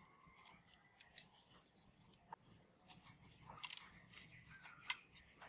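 Faint, sparse clicks and light taps, with one sharper click about five seconds in.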